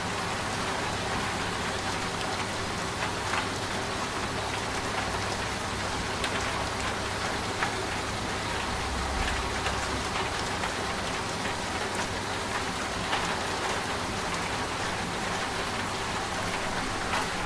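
Steady rain pattering, with scattered sharper drop ticks, over a steady low hum from a running washing machine.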